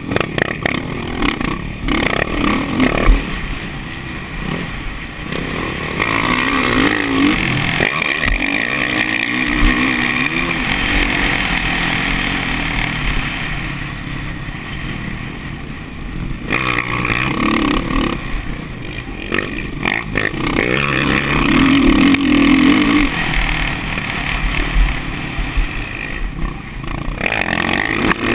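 Motocross bike engines running and revving, the pitch rising and falling as the throttle opens and closes, with several abrupt changes in the sound.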